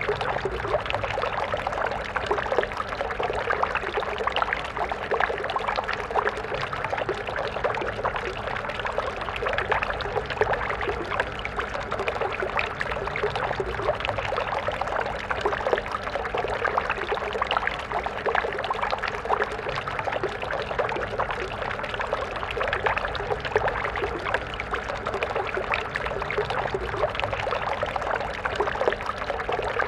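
Small stream of water flowing and splashing steadily over stones, a continuous busy babble.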